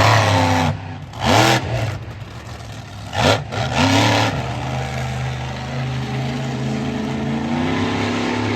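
Monster truck engine running loud, surging in short revs a few times in the first half, then holding a steady drone that climbs slightly in pitch near the end.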